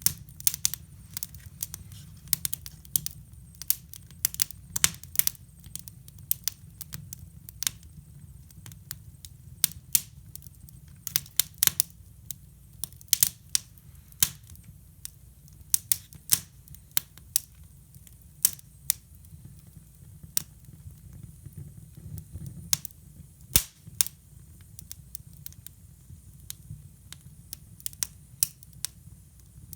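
Wood fire burning in a hybrid wood stove, crackling with irregular sharp pops over a low steady rumble.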